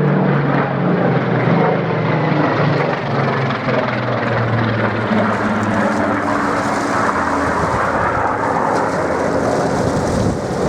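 Supermarine Spitfire's piston engine running as the fighter flies past, a low pitched engine note over a rush of noise. The engine note fades about two-thirds of the way through, and the rush of noise carries on.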